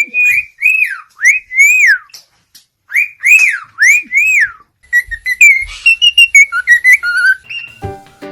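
A pet bird whistling: a series of clear notes that each rise and fall, then a quicker, more varied run of chirps and trills. Music comes in near the end.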